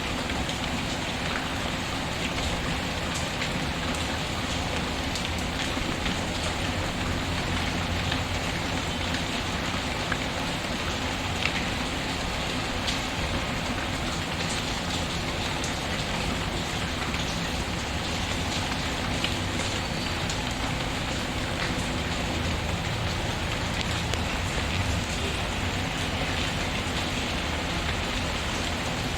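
Steady rain pattering, mixed with a wood fire crackling, its crackles heard as scattered sharp ticks.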